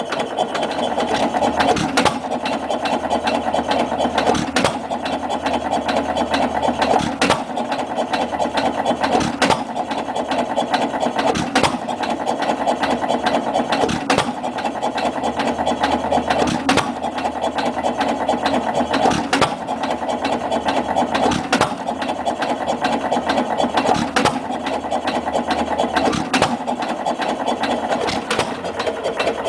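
1924 T. Eaton (Stover) 3 hp type KB single-cylinder hit-and-miss stationary engine running at about 280 rpm, with a steady clatter. A sharp firing bang comes roughly every two and a quarter seconds, and the engine coasts on its flywheels between them.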